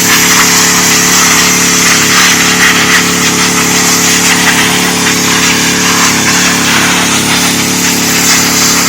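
DeWalt 3600 psi gas pressure washer running steadily, its engine tone under the hiss of the high-pressure water jet spraying concrete.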